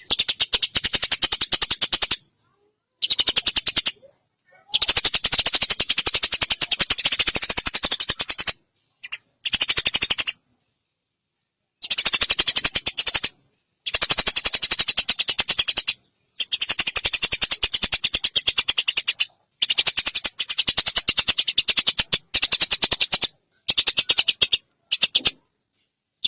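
Eurasian tree sparrows chattering in fast, dense runs of sharp chirps, the agitated calls of sparrows fighting. The runs last from about a second to several seconds and stop abruptly between short silences.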